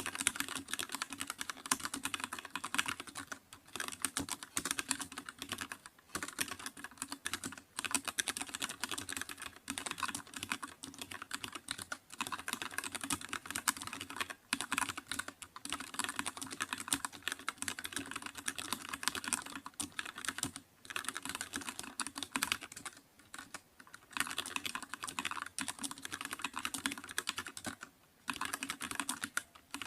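Computer keyboard being typed on: a rapid, continuous stream of key clicks with short pauses every few seconds.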